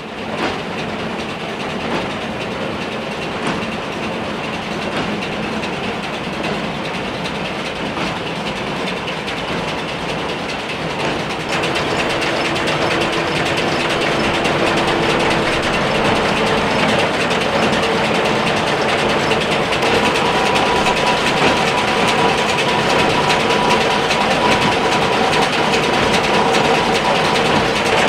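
Case IH 8575 big square baler running off a tractor's PTO: a steady mechanical clatter under the tractor engine, growing a little louder about twelve seconds in.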